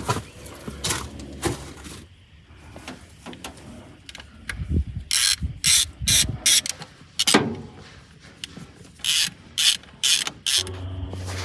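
Ratchet wrench clicking in short bursts as bolts are backed out to take off a valve cover. A low steady hum comes in near the end.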